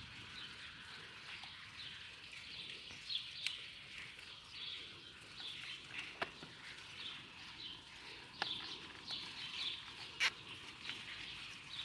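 Small birds chirping over and over in short calls, with a few sharp clicks now and then.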